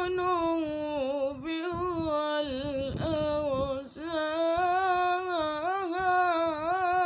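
A single voice singing an Islamic supplication (ibtihal) in long, ornamented melismatic phrases, stretching out the word 'al-dhunub' ('the sins') with wavering turns of pitch and a brief breath a little before halfway.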